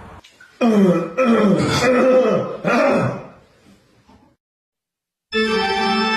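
Three drawn-out vocal calls, each falling in pitch, from a cat or a person. About five seconds in, organ-like music with sustained chords starts.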